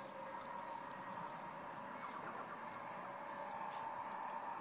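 Faint outdoor ambience of small birds chirping now and then, over a faint steady tone.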